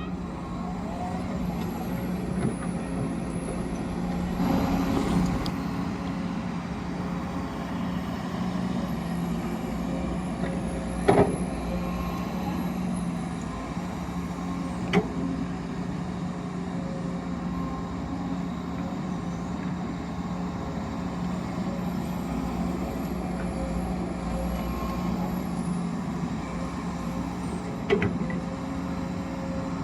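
Radio-controlled excavator and dump truck running with a steady mechanical hum, broken by three sharp knocks.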